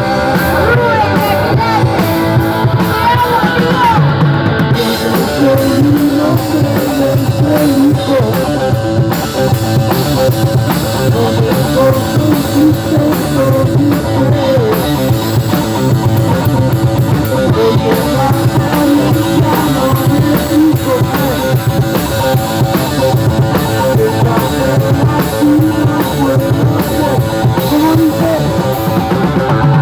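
Rock and roll band playing loudly and continuously, with electric guitar over a drum kit.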